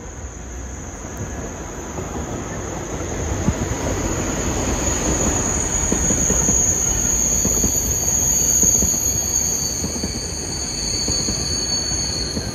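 Ouigo double-deck TGV high-speed train passing, its rumble swelling to a peak about halfway through and easing off near the end, with a steady high-pitched whine over the wheel noise.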